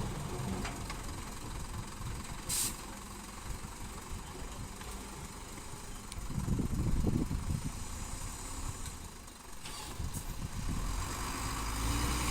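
Diesel engines of a small bulldozer and dump trucks running at a soil-fill site, the engine note swelling under load about six seconds in and again near the end. A short hiss of air about two and a half seconds in.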